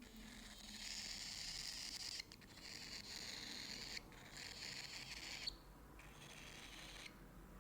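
Albino cockatiel making faint, raspy hiss-like calls in about four long stretches, with short breaks between them.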